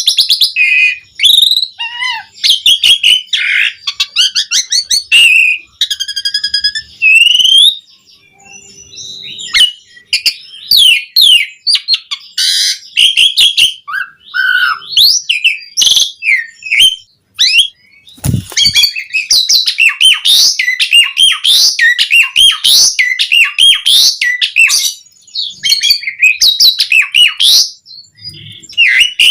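Asian pied starling (jalak suren) singing loudly: a rapid, varied stream of chirps, whistles and harsh notes, with a short lull about eight seconds in.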